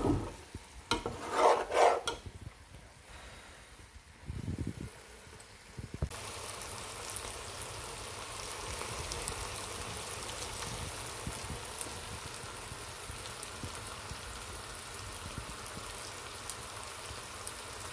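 Chana dal and chicken sizzling in a pan: a steady hiss with fine crackling from about six seconds in. Before that come a few louder knocks and scrapes, such as a spoon stirring in the pan.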